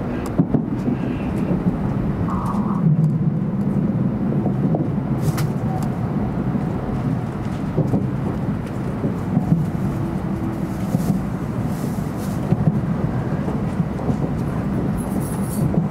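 Inside the passenger car of a 700 Series Shinkansen moving slowly through the station: a steady low rumble of the running train, with scattered small clicks.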